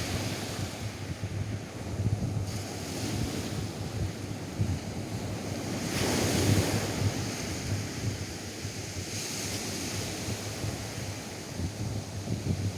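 Atlantic surf washing onto a sandy beach, with wind buffeting the microphone as a fluttering low rumble. A wave surges in loudest about six seconds in.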